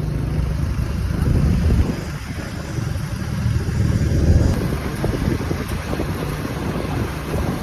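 A small motorbike running along a road, with wind buffeting the microphone in a heavy, uneven low rumble.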